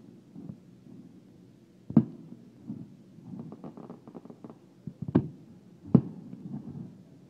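Aerial firework shells bursting: three booms about two, five and six seconds in, with a run of smaller pops in between.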